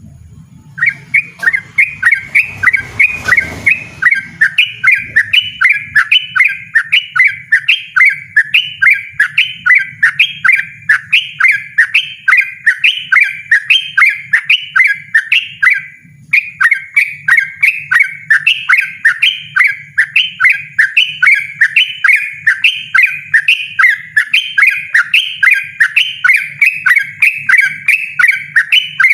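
Yellow-vented bulbul (trucukan) singing a fast, unbroken run of loud repeated phrases, with one brief pause a little past halfway.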